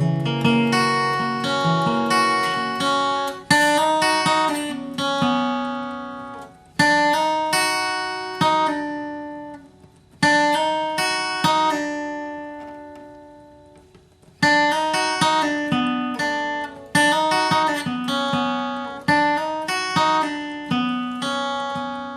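Acoustic guitar picking a bluegrass melody line, the part a fiddle or mandolin would play, in short phrases. Notes are left ringing to fade out between some of the phrases.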